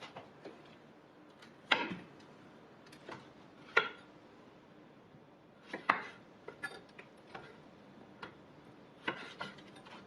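Kitchenware knocking and clinking in an irregular series of sharp taps. The loudest come a little under two seconds in, near four seconds and near six seconds, with lighter taps between them.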